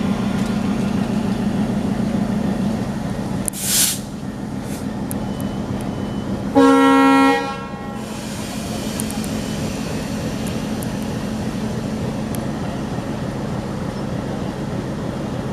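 WDM-3A diesel locomotive idling with a steady rumble. A short hiss comes about four seconds in, then one short horn blast near the middle.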